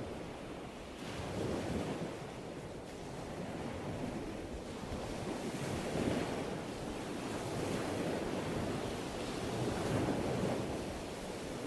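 Ocean surf, waves breaking and washing in continuously, with the noise swelling as each wave crashes, about every four seconds.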